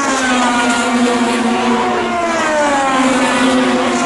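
IndyCar race cars' twin-turbo V6 engines running at high revs, one engine note sliding steadily down in pitch over about three seconds, then another starting high and falling again near the end.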